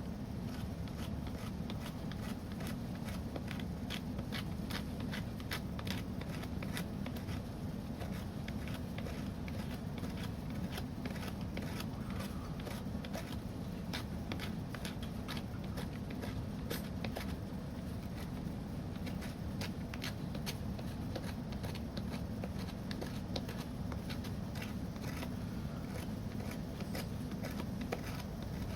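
Wood fire crackling, with frequent irregular sharp snaps and pops over a steady low rumble.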